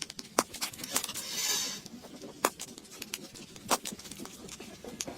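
A series of sharp, irregular clicks and taps, with a brief rustle about a second and a half in.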